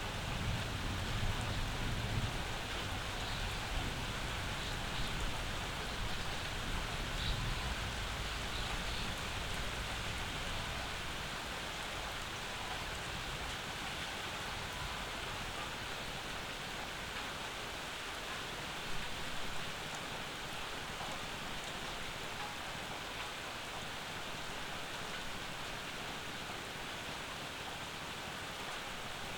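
Steady summer rainfall, an even hiss of drops, with a low rumble of thunder dying away over the first several seconds.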